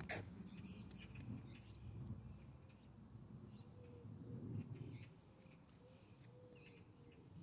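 Faint outdoor ambience: scattered short, high bird chirps in the distance over a low rumble, with a single sharp click right at the start.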